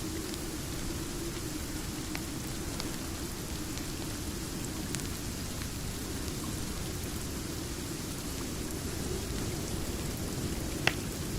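Steady rain with a deep low rumble beneath it, mixed with a fireplace crackling: a few scattered sharp pops, the loudest one near the end.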